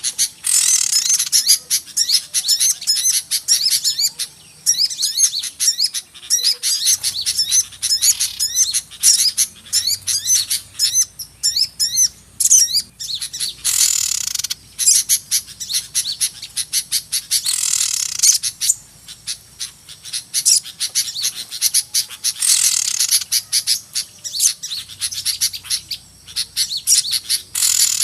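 Lure-call track of many small birds chirping and twittering at once in a dense, high-pitched chorus, used to draw small birds in for trapping. Harsher, noisier chattering swells up several times.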